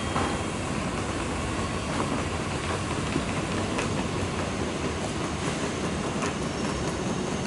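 JR Central 315 series electric train pulling into a station platform: a steady running noise of wheels on the rails, with a few sharp clicks along the way.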